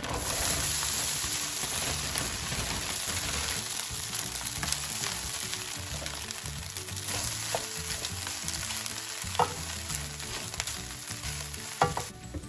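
Shredded cooked chicken breast sizzling in oil and fried garlic in a nonstick frying pan: a steady frying hiss that starts as the meat goes in, with a few sharp clicks in the second half.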